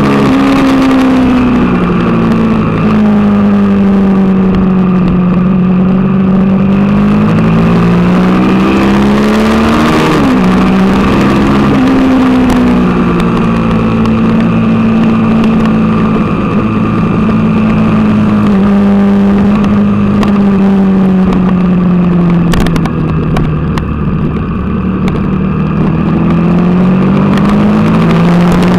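Suzuki TL1000R's V-twin engine at track speed, heard from a camera mounted on the bike: a strong, steady engine note that rises and falls slowly through the corners, with a quick drop and recovery in pitch about ten seconds in.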